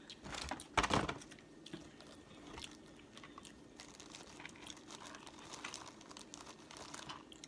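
Close-miked eating of a seafood boil: a loud crunchy bite about a second in, then steady chewing with small wet clicks and crinkles.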